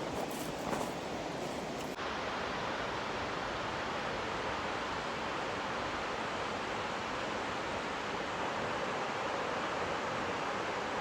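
Steady rushing of river water, an even hiss with no rhythm; the sound changes abruptly about two seconds in and grows brighter.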